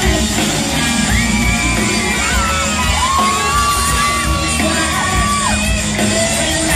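Live rock band playing through a loud amplified sound system, with a singer holding long notes and the audience yelling over the music.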